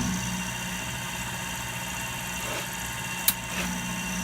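Milling machine motor and spindle running steadily with a hum and a high whine, with one sharp click about three seconds in.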